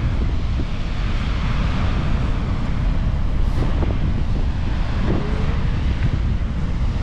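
Dettifoss waterfall: the steady, loud rush of a large volume of falling water, with wind buffeting the microphone.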